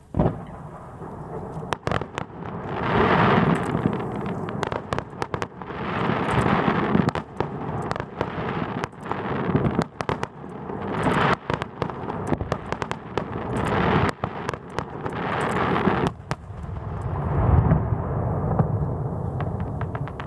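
Aerial fireworks display: a rapid series of shell bursts going off in sharp bangs, with swells of crackling every few seconds.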